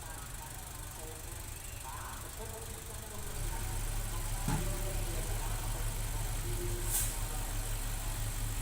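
Diesel engine of a small bulldozer or dump truck running steadily, growing louder a little over three seconds in. There is a knock about four and a half seconds in and a short sharp noise about seven seconds in.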